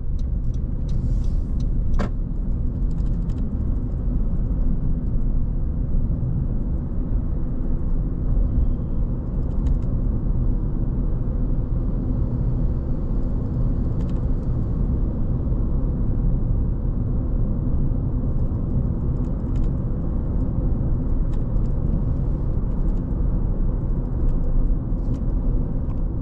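A car driving: a steady low rumble of engine and road noise, with a few faint clicks and ticks and one sharper click about two seconds in.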